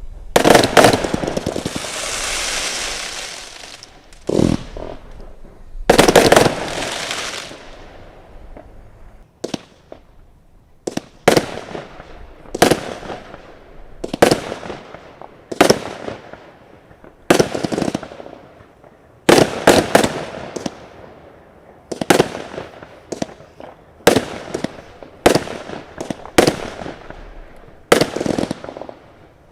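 Consumer firework cakes firing in quick succession during a finale: sharp bangs roughly one a second, many followed by a fading crackle, with a longer crackling shower in the first few seconds.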